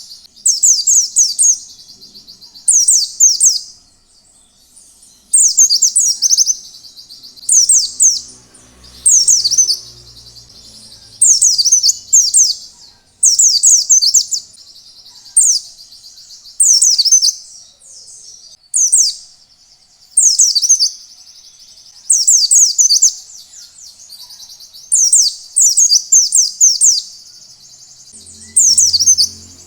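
White-eye (pleci) singing in the wild-type 'ngalas' style: short, high, rapid phrases of quick falling notes, repeated about every one to two seconds.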